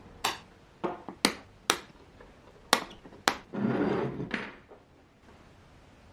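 A hammer tapping on metal parts, six sharp knocks spaced about half a second to a second apart, followed near the middle by a rough rasping noise lasting about a second.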